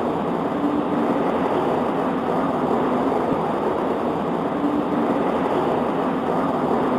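Steady rain, an even rushing with most of its weight low and dull, with no separate drops or claps standing out.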